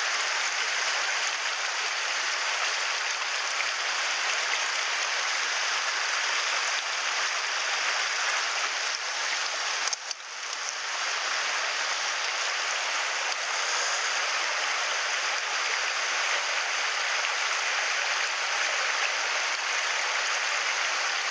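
Mountain stream rushing and splashing over rocks, a steady water hiss with a brief drop in level about halfway through.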